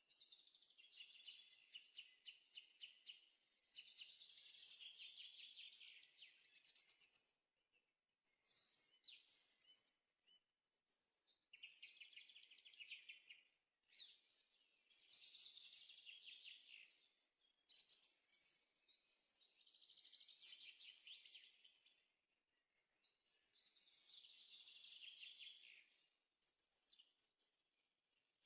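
Faint songbird singing: a run of rapid, trilled phrases, each one to three seconds long, repeated every few seconds with short pauses between them.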